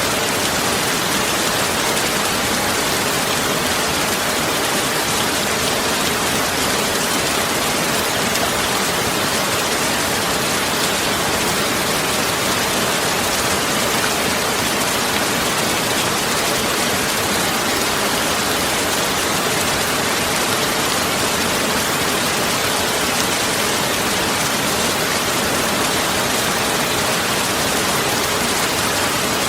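A steady, even hiss of rain-like noise that does not change in level.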